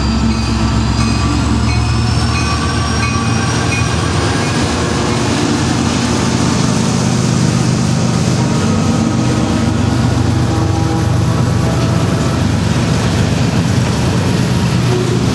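Diesel freight locomotives running with a loud, steady low drone, with faint high-pitched tones drifting in pitch during the first few seconds.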